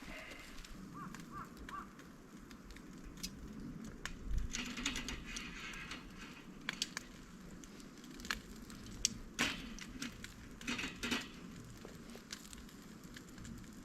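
Wood fire crackling, with scattered clicks and knocks in short clusters, and a few faint short chirps about a second in.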